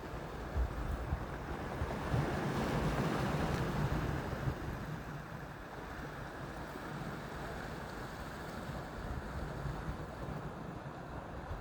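Black Sea waves washing ashore, with wind rumbling on the microphone; the wash swells about two to four seconds in.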